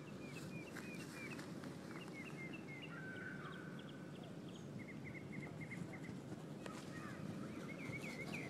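Wild birds chirping in short, repeated calls, with a quick run of notes about two-thirds of the way through, over steady low outdoor background noise.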